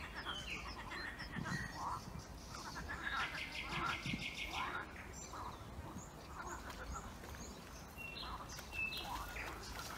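Birds calling, many short chirps and calls with a few high whistles, including a buzzy trill about three seconds in.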